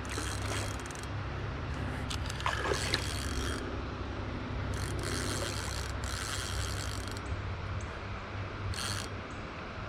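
Fishing reel working while a hooked common carp is played: a mechanical clicking and grinding that comes and goes in stretches over a steady low hum.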